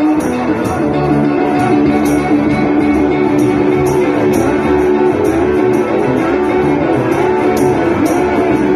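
Live blues band playing an instrumental passage: electric guitars and bass guitar with sustained notes, over a steady beat of sharp high ticks about twice a second.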